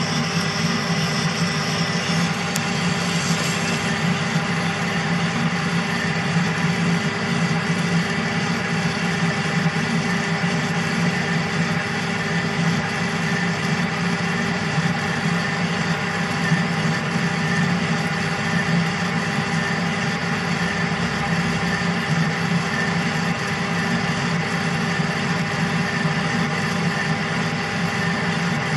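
Metal lathe running steadily, its motor and gearing giving a constant hum with several held tones, while a cutting tool cuts along the weld of a hydraulic-cylinder part.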